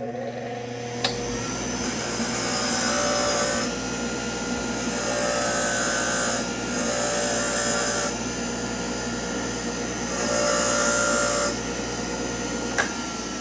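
Cordless drill run in four bursts of one to two seconds each, whining steadily while it runs, with a click about a second in and another near the end.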